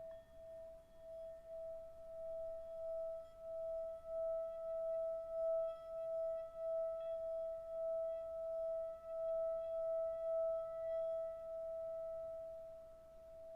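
Singing bowl rimmed with a mallet, holding one sustained ringing tone with higher overtones; its loudness wavers up and down as the mallet circles the rim.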